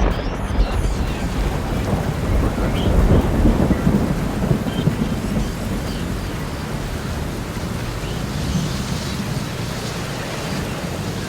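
Typhoon storm: heavy rain and strong wind with a deep, rumbling low noise that swells and eases.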